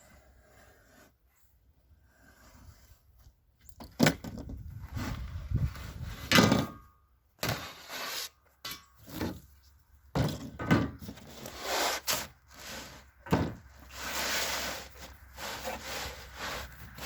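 Irregular knocks, bumps and rubbing or scraping from something being handled, starting about four seconds in after a quiet opening.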